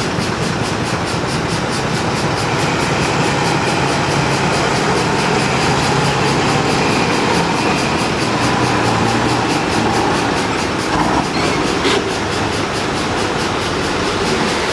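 Engines of vintage heavy trucks running steadily, with two short knocks near the end.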